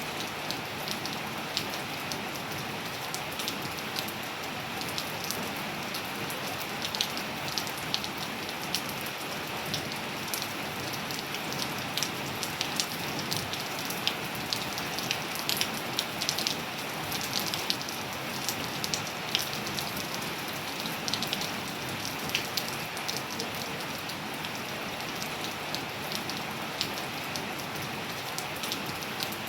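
Steady rain falling on hard surfaces, an even hiss with many individual drops ticking and splashing, the drops densest towards the middle.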